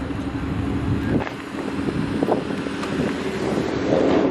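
A car engine running steadily, with wind buffeting the microphone for about the first second.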